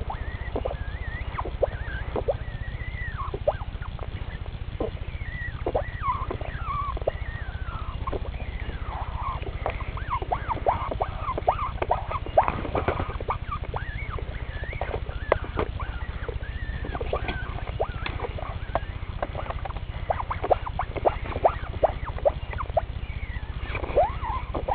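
A person making a rapid run of squeaky mouth noises at a dog: short high chirps, sliding squeaks and clicks, over a steady low hum.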